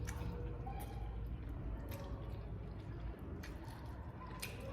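Close-up eating sounds: wet, squishy chewing with a few sharp crunches.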